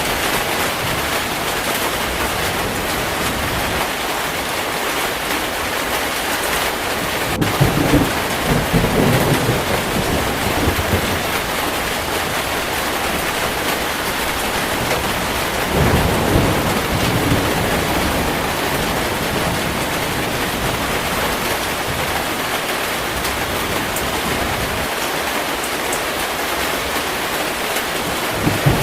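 Heavy rain falling steadily, with low rolls of thunder about eight seconds in, again around sixteen seconds, and a third starting right at the end.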